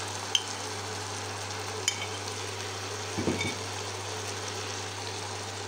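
Shredded potatoes frying in oil in a wok, giving a steady sizzle, with two sharp clicks of a metal spoon against the plate or pan within the first two seconds.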